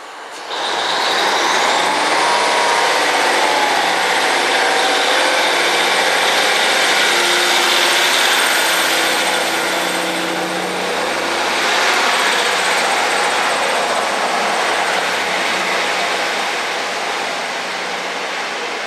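A train passing close by at speed: a loud rushing noise that comes in suddenly about half a second in, with a high whine rising in pitch over the next second or two, easing off slightly near the end.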